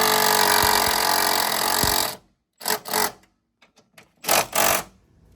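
Impact wrench running bolts down tight: one long hammering burst that cuts off about two seconds in, then two pairs of short bursts.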